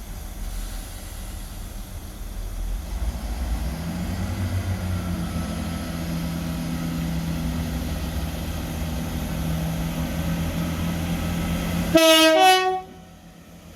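Diesel train approaching with its engine running steadily and growing louder, then sounding a two-tone horn near the end: a short lower note followed at once by a higher one, about a second in all, after which the sound cuts off suddenly.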